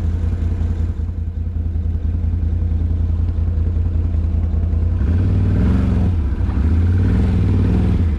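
Off-road vehicle's engine running at low speed on a trail, then revving up about five seconds in as it is given throttle, with some rattling over it.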